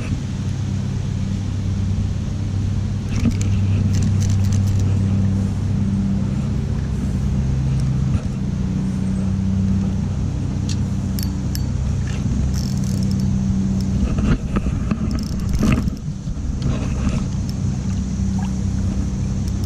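A steady low engine-like drone with a hum, loud and unbroken, with scattered light clicks and taps through the middle and later part.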